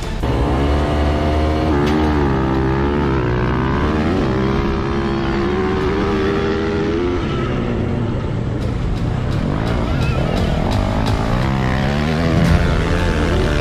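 Dirt bike engine revving, its pitch rising and falling again and again with the throttle.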